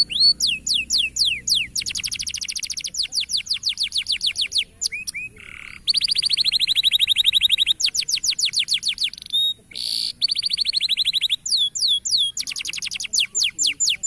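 Canary singing a high-pitched song of fast trills, each a rapid run of repeated down-slurred notes. The phrases change every second or two, with a couple of short breaks.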